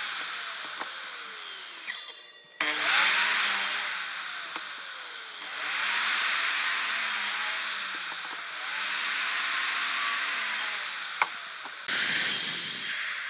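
Power tool cutting or sanding wood, a loud rushing hiss with a wavering motor pitch beneath it, cut by a short break about two seconds in.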